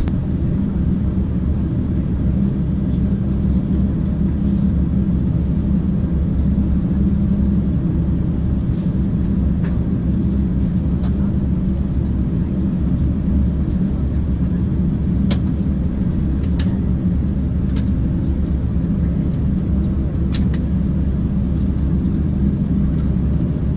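Steady low cabin rumble of an Airbus A350-900 on the ground after landing, heard from a passenger seat. A few faint clicks in the cabin stand out now and then.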